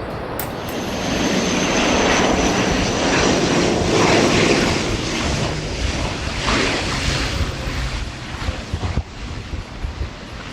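An airplane's engines passing by: a rushing noise that swells over the first couple of seconds, is loudest about four seconds in, and dies away after about eight seconds.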